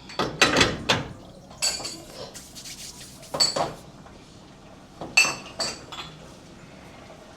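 Metal and crockery clinks and knocks as espresso equipment is handled at the machine, in several short clusters of sharp clatter.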